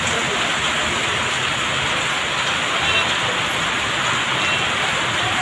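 Heavy monsoon rain pouring down steadily on a city street, a dense even hiss of rain on the road and surfaces.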